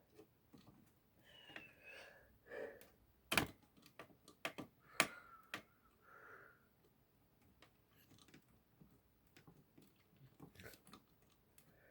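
Scattered clicks and light taps of a small screwdriver and its bits being handled and tried on a fan screw, with a cluster of sharp clicks in the middle.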